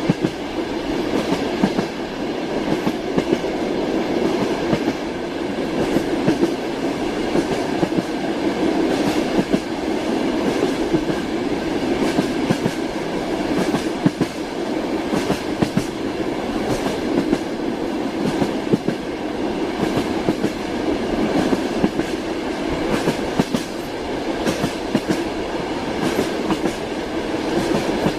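Steel wheels of a moving passenger train knocking over the rail joints, heard from inside the carriage: a steady rumble with irregular clicks and knocks through it.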